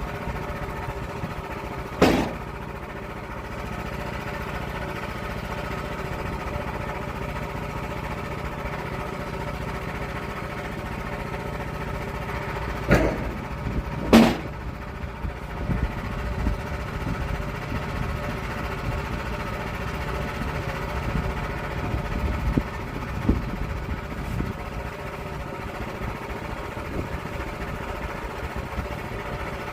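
Engine running steadily at an even, unchanging speed. Three sharp knocks cut through it: one a couple of seconds in, then two close together about halfway through.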